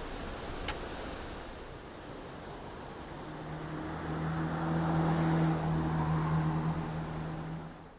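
A motor vehicle driving past on the street: tyre and road noise with a low engine hum that comes in about three seconds in, swells past and fades, then cuts off abruptly at the end.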